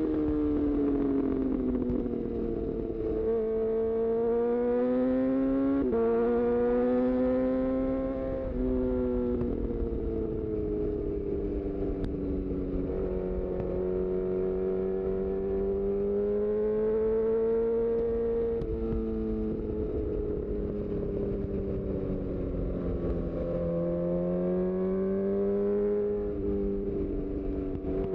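Honda CB1000R inline-four engine through a full-system aftermarket exhaust, pulling through the gears and easing off, its pitch rising and falling. Several sudden steps in pitch mark quick gear changes.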